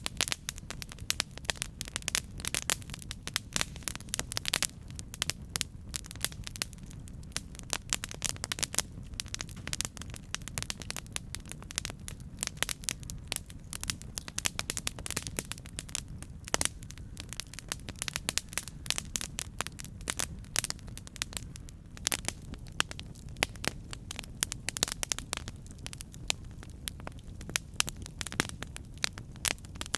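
Campfire crackling: wood popping and snapping in a dense, irregular stream of sharp clicks over a steady low rumble.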